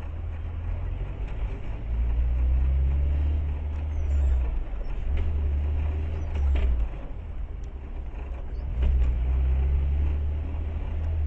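Car engine and road rumble heard from inside a moving car, low and steady, swelling as the car speeds up about two seconds in and again near nine seconds.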